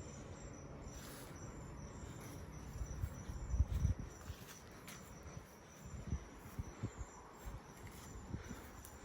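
Crickets chirping steadily, a faint high-pitched pulsing trill, with low rumbling thumps about three to four seconds in and a few more near the end.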